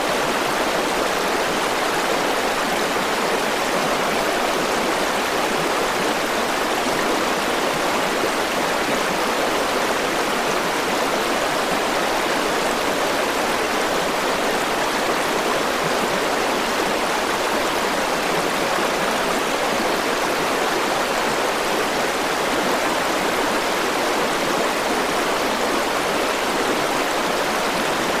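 River water flowing over rocks, a steady rushing and burbling with no change throughout.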